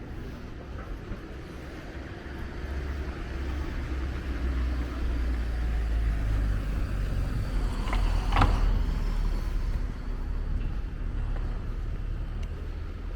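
A motor vehicle passing close by: a low engine and tyre rumble that builds, peaks about eight seconds in with a brief sharper noise, then fades.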